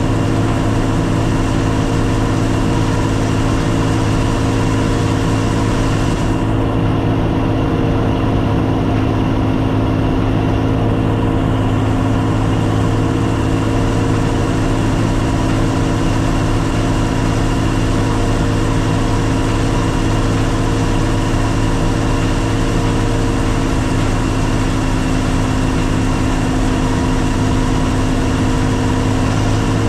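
Old 4400 combine harvester running steadily at a constant pitch, its engine drone unbroken.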